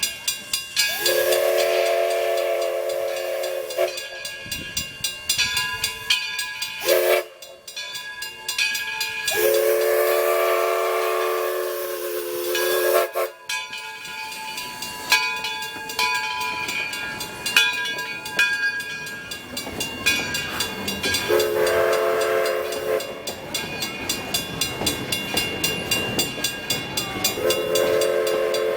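Steam locomotive's chime whistle blowing several blasts, two of them about three seconds long and a shorter one near the end, with steam hissing and rhythmic exhaust chuffing between the blasts as the engine works its train past.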